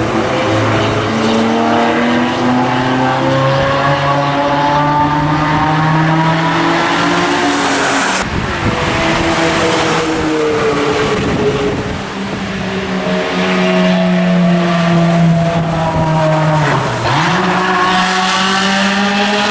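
Ferrari F355 Challenge's 3.5-litre V8 with a racing exhaust, loud and under hard acceleration, its pitch climbing steadily. It breaks off abruptly about eight seconds in and comes back with rising revs. Near the end the revs drop briefly and then climb again.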